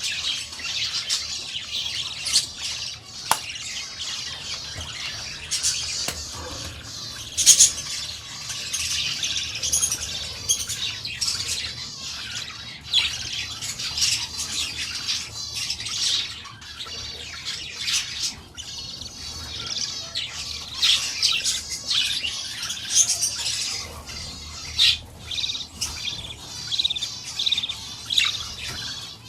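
Budgerigars chattering and chirping continuously, a dense warbling with occasional louder squawks.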